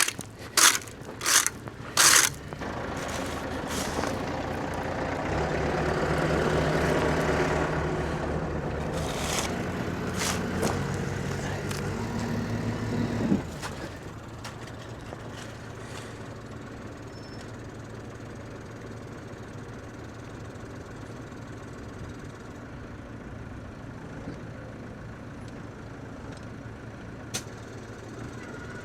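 A vehicle engine running: a few sharp knocks at the start, then the engine louder for the first half. It drops off about halfway to a quieter steady hum.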